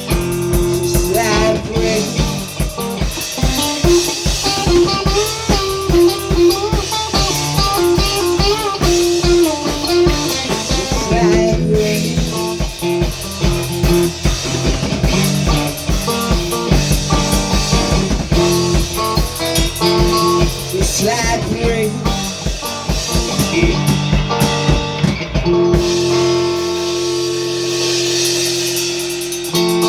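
Instrumental band music with electric guitar and a steady drum-kit beat; about 26 seconds in the drums stop and a held guitar chord rings out to close the song.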